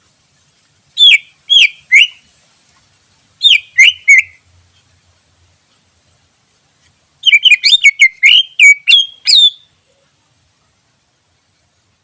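Green leafbird (cucak ijo) singing loud, clear whistled notes that bend sharply up and down: two short phrases of three notes each, then a longer, faster run of about ten notes.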